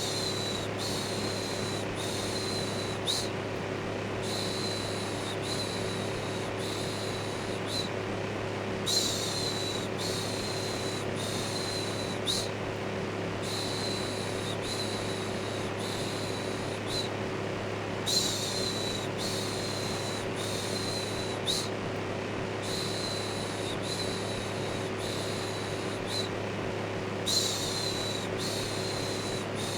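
An electric fan running with a steady hum and whoosh. Over it comes a looped "shhh" shushing: runs of short hissing pulses, a few seconds each with brief pauses between, repeating throughout.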